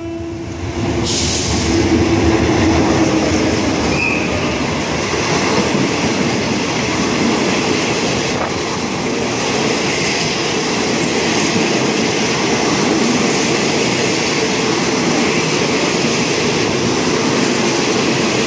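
Diesel-hauled passenger train rolling past close by, a steady rumble of steel wheels on the rails, with a short high squeal about four seconds in.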